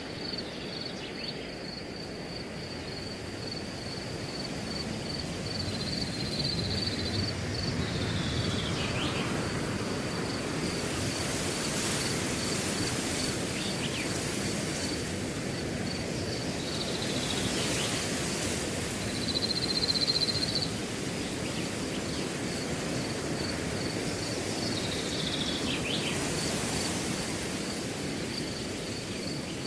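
Wind blowing through a grass field in slow, swelling gusts, over a cricket chirping steadily in even pulses. A few short calls falling in pitch come and go.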